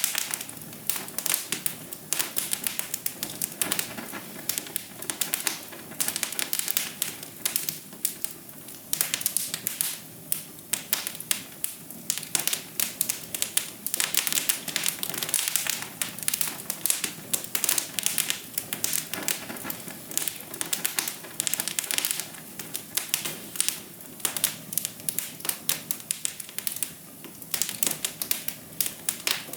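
Wood fire crackling in a fireplace: a dense, irregular run of sharp pops and snaps over a steady low hiss of burning.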